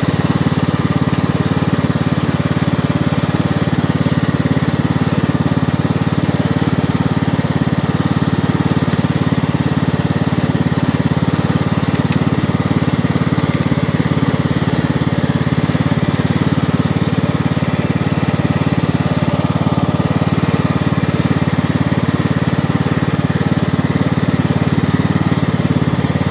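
John Deere lawn tractor's 540cc, 18 hp engine running steadily under way at a little over 5 mph, with an even low drone and no changes in speed.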